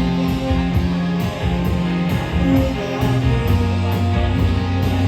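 Live rock band playing an instrumental passage between sung lines: electric guitars and bass over a steady drum beat.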